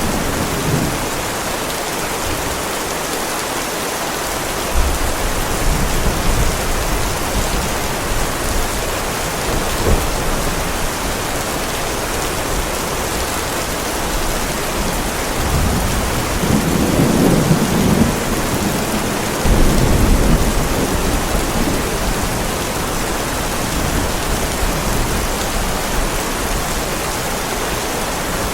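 Heavy rain falling steadily on a driveway, a constant hiss of drops. Low thunder rumbles under it about five seconds in, briefly again near ten seconds, and more strongly for several seconds past the middle.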